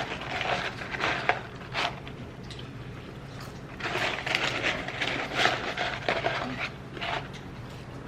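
Close-up eating sounds: irregular bursts of crackly chewing and food handling, with a low steady hum underneath.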